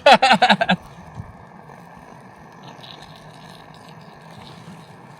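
A short exclamation from a voice, then a steady, even background noise with no distinct events.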